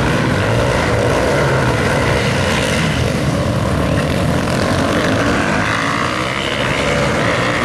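Supermoto motorcycles running on the track, their engines making a steady, continuous drone.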